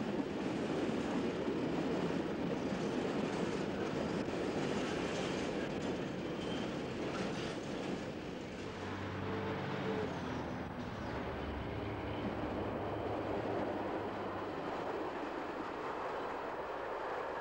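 Freight train of covered wagons rolling past, a steady rumble of wheels on the rails. A low droning tone joins in about nine seconds in and fades a few seconds later.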